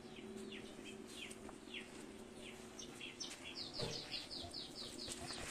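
A bird calling in short downward-sliding chirps, scattered at first and then in a quick run of about eight, over a steady low hum. There is one dull knock, the loudest sound, a little before four seconds in.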